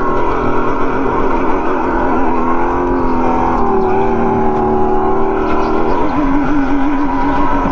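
Go-kart motor running at speed around the track, a steady pitched drone that dips in pitch about three seconds in and shifts again near six seconds.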